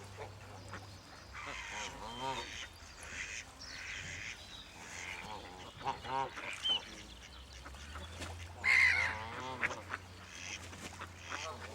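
Waterfowl calling: a string of short quacking and honking calls, the loudest about nine seconds in.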